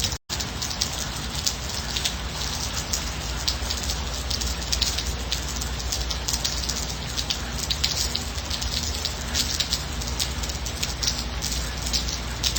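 Steady gentle rain, with a dense scatter of separate drops hitting a surface and no thunder. The sound cuts out to silence for a split second just after the start, then resumes.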